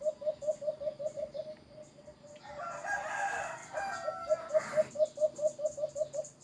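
Bird calls: a fast run of short, repeated calls, about six a second, broken about halfway through by one longer, louder call.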